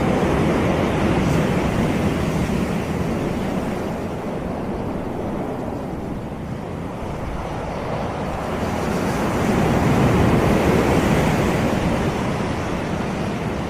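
Sea waves breaking and washing up on a tropical beach. The surf swells loudest near the start and again about ten seconds in, with a quieter lull between.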